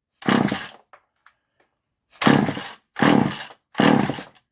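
A Poulan Micro chainsaw being pull-started by its recoil starter. The engine cranks over in short, sharp bursts about half a second long: one just after the start, three in quick succession from about two seconds in, and another starting at the very end. It does not catch and run.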